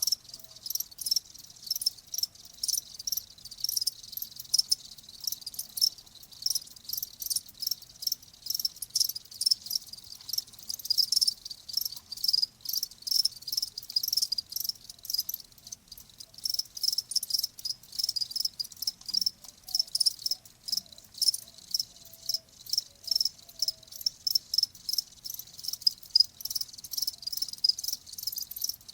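Crickets chirping: short, high-pitched chirps repeated steadily, about three a second.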